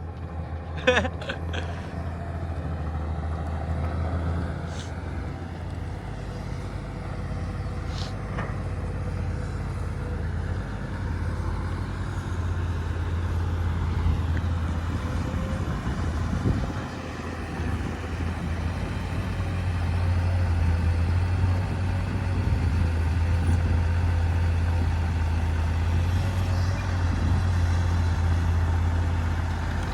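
Heavy diesel engine of earthmoving machinery running steadily, a low drone that grows somewhat louder in the second half.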